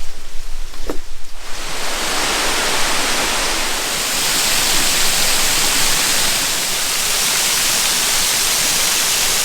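Waterfall rushing steadily over rocks. The sound is softer and uneven at first, then becomes a fuller, even rush about two seconds in.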